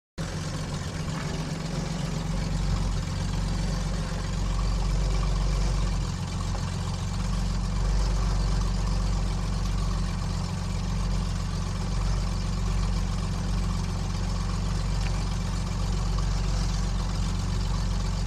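KR2 light airplane's piston engine and propeller running steadily at low power before the run-up.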